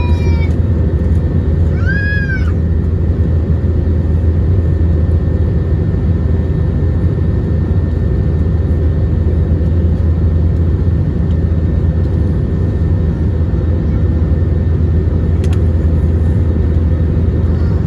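Airbus A321 jet airliner engines in a steady, loud, low drone. About two seconds in there is a short, high call that rises and falls in pitch.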